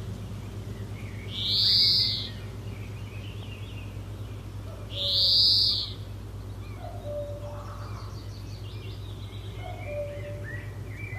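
Bird calls: two loud, arching high calls about three and a half seconds apart, each under a second long, with softer chirps and short lower notes in between, over a steady low hum.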